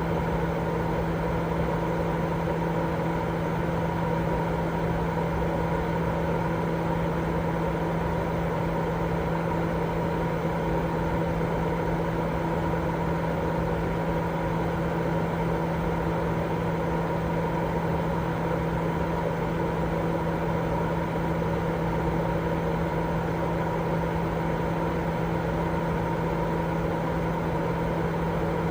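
Continuous white noise for lulling a baby to sleep: an unchanging hiss with a steady low hum running through it.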